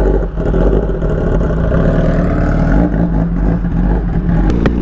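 Sport motorcycle engine running at low, fairly steady revs with a deep exhaust rumble, and a brief click near the end.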